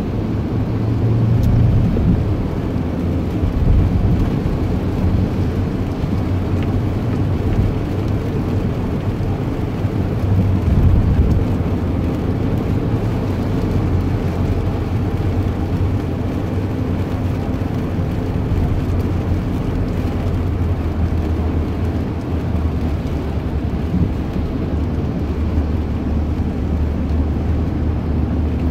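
Steady low rumble with a faint hum, like a running vehicle.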